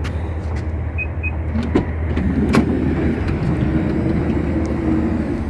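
Nissan Serena minivan: a steady low hum, with a mechanical whirr lasting about three seconds in the middle and a few sharp clicks.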